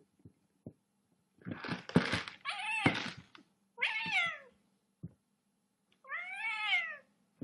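A cat meowing repeatedly: four drawn-out meows that rise and fall in pitch, the first one rough and raspy, the last one the longest.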